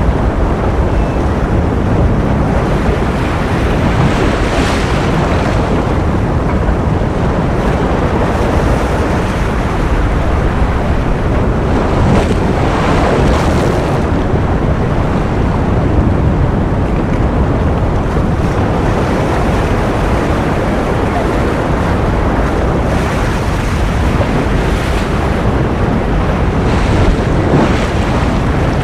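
Ocean surf: a steady, dense wash of waves, its hiss swelling now and then as waves break.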